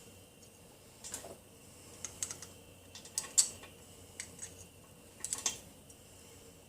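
Irregular light clicks and taps in small clusters, from small tools and parts being handled at a workbench, the sharpest a little past the middle.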